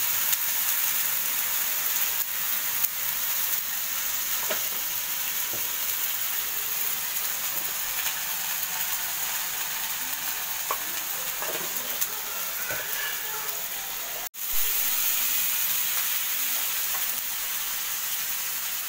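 Onion and spice masala frying in oil in a frying pan on a gas burner, a steady sizzle with a silicone spatula stirring through it. The sound drops out for an instant about fourteen seconds in.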